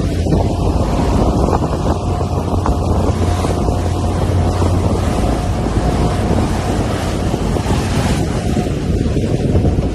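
Wind blowing hard across the microphone over a steady low rumble, as on the deck of a moving cruise ship.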